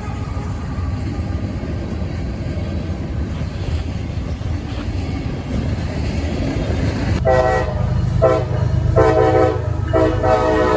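Diesel locomotive rumbling as it pulls a freight train. About seven seconds in, its multi-tone air horn sounds a series of blasts, a short one among longer ones, with the last blast held.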